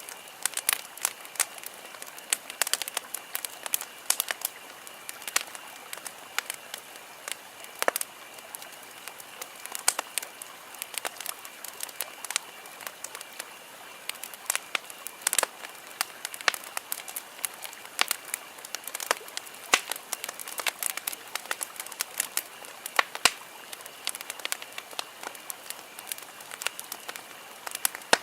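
Wood campfire crackling, with irregular sharp pops and snaps of varying loudness over a steady low hiss.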